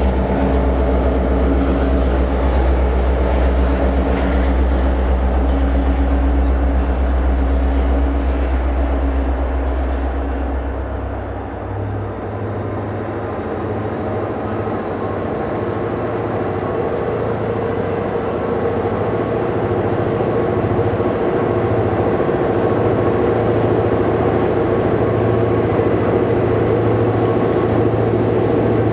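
EMD diesel freight locomotives running under power as a train passes. A deep steady engine rumble dips about twelve seconds in and gives way to a different, higher steady engine note as the next unit goes by.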